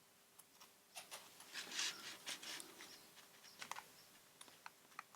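Scissors snipping off the ends of a craft piece: a faint, irregular run of short clicks and snips.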